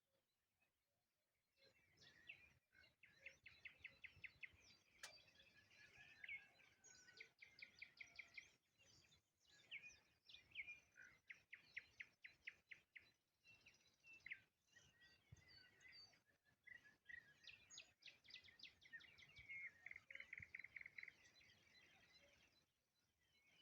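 Nightingale singing faintly: phrases of rapid repeated notes and trills with short pauses between them, starting about a second and a half in.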